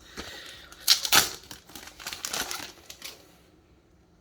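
Yu-Gi-Oh trading cards and booster-pack wrapping being handled: rustling and crinkling, with two sharp snaps about a second in. The handling stops about three and a half seconds in.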